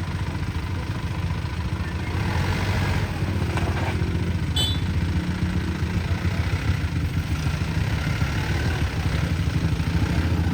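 A vehicle engine running steadily at low speed, with a brief high chirp about four and a half seconds in.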